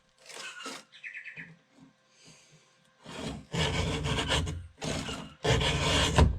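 Round chainsaw file in a filing guide rasping across the cutting teeth of a Stihl MS361 chain, hand-sharpening it. After about three seconds of light handling sounds, several scraping file strokes follow one after another, the file lifted off the tooth between them.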